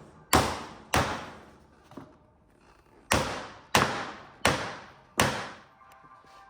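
About six sharp metal strikes on a bent flatbed frame part being worked straight with a crowbar, each ringing briefly before dying away, with a longer pause after the second.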